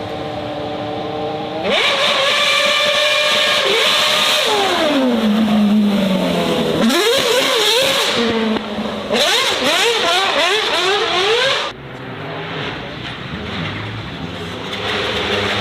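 Racing car engine at full throttle, its pitch climbing and dropping sharply with each gear change. A long falling note around the middle comes as it slows, then a run of quick rising shifts before it drops quieter near the end.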